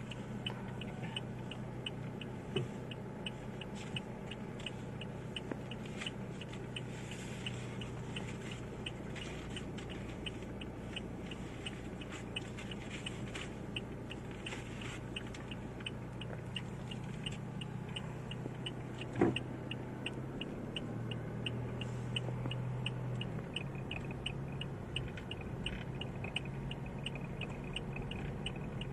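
Car engine running at low speed, heard from inside the cabin, with an even ticking of about two or three clicks a second over it. A single sharp knock comes about nineteen seconds in, and the engine note swells for a few seconds soon after.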